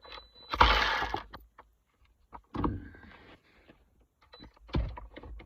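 Tool work on the last of four engine bolts, with metal rasping and clattering. A loud burst comes about half a second in and lasts under a second, followed by two shorter bursts, one near the middle and one near the end.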